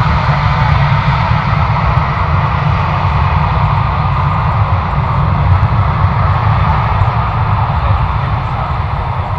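Jet airliner engines running at power with a steady, loud roar and a deep rumble, easing off slightly near the end.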